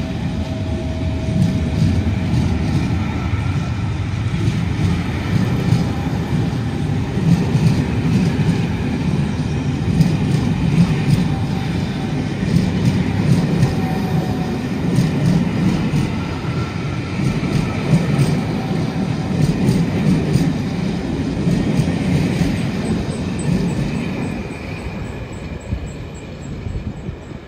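A rake of passenger coaches rolling past at close range: a steady wheel-on-rail rumble with scattered rail-joint clicks, fading away over the last few seconds as the last coach draws off.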